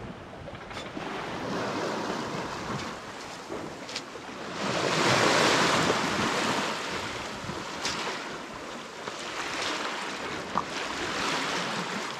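Sea water washing and rushing along the hull of a sailboat under way, with wind on the microphone. The wash swells in waves, loudest about five seconds in, then eases off.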